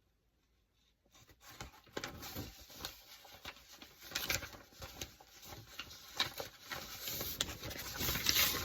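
Handling noise: rustling and many light clicks and taps, starting about a second in and growing a little louder.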